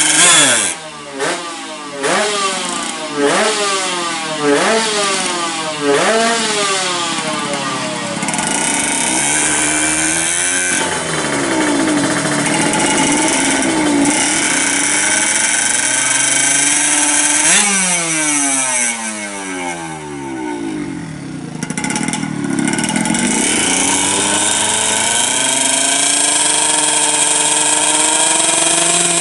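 Drag-tuned Yamaha F1ZR two-stroke engine bored out to 116 cc, revved in a quick run of about six throttle blips. It then runs at a wavering idle with one more sharp rev about halfway through, and holds a steady speed near the end.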